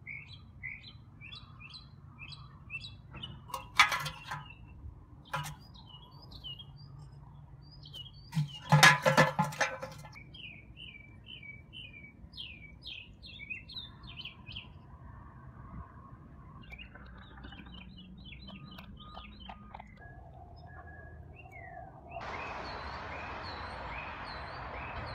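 Small birds chirping in quick repeated notes. A couple of sharp knocks come about four seconds in, and a louder clatter comes around nine seconds, the loudest sounds here. A steady hiss comes in near the end.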